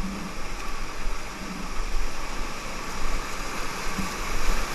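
River whitewater rushing steadily around a raft, an even wash of water noise, with a low rumble on the microphone.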